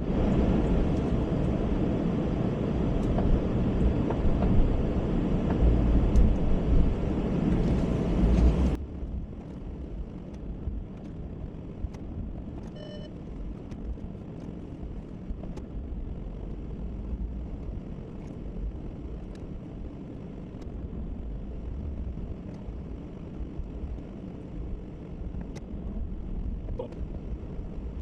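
Plow truck's engine running, a loud rumble that drops suddenly about nine seconds in to a quieter, steady low rumble. A short beep sounds once, about thirteen seconds in.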